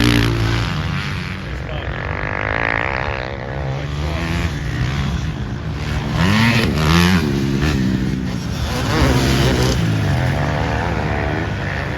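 Motocross bikes ridden on a dirt track, engines revving up and down with the throttle as they come past, the pitch rising and falling several times.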